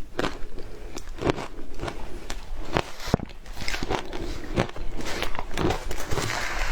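Frozen matcha ice being bitten and chewed: a steady run of sharp, crisp crunches, roughly two a second.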